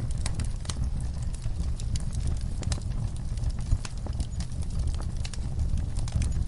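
Wood fire crackling in a fireplace, with frequent sharp snaps and pops over a steady low rumble of the flames. One louder pop comes a little past halfway.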